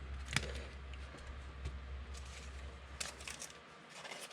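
Faint handling of trading cards: scattered light clicks, taps and rustles, with a sharp click about half a second in. A low hum stops about three and a half seconds in.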